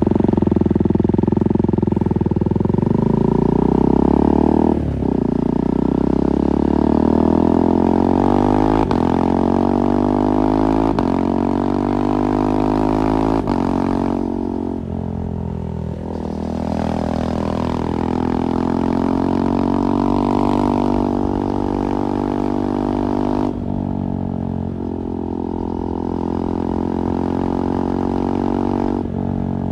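KTM 390 Duke single-cylinder engine through an IXIL slip-on exhaust, riding under acceleration. Its pitch climbs in each gear and drops sharply at several quick upshifts made with the quickshifter.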